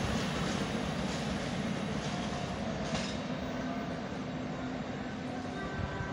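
A passenger train running away into the distance after passing through the station at speed. Its steady rumble on the rails slowly fades.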